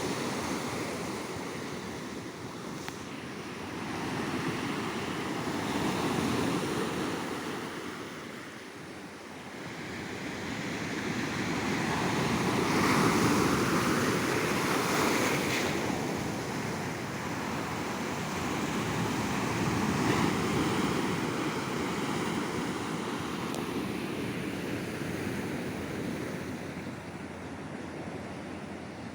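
Sea waves breaking and washing up a beach shore, the surf swelling and falling away every several seconds, loudest about halfway through.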